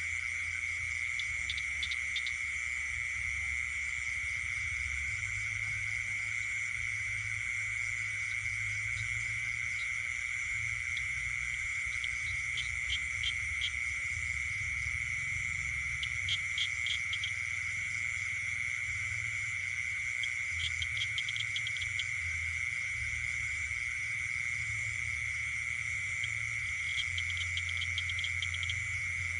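Night chorus of insects and frogs: a continuous high, steady trill with short runs of rapid clicking calls every few seconds, over a low rumble.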